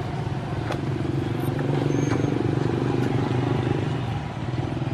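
Motor vehicle engine running steadily, growing louder through the middle and easing off near the end, as if passing close by.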